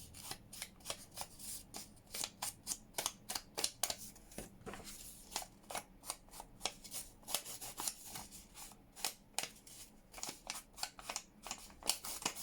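Paper and card being handled and pressed down: irregular crisp rustles and taps, several a second.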